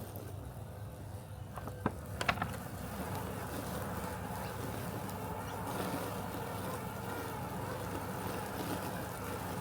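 Robotic lawn mower running with a steady mechanical hum. A couple of sharp clicks come about two seconds in, after which a higher whirr grows a little louder and holds.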